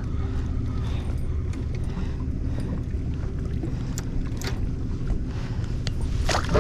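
Boat motor running steadily with a low hum, with a few light clicks and knocks from the boat in the second half.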